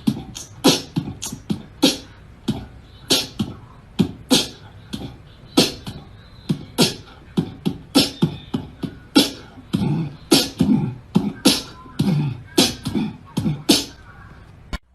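A quick, irregular series of short sharp clicks and thumps, about two to three a second, like mouth percussion.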